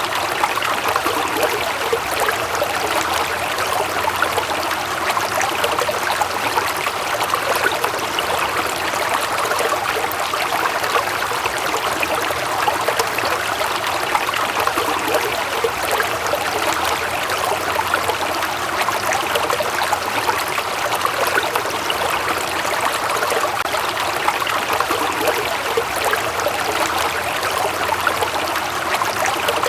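Small stream running: a steady rush and trickle of flowing water.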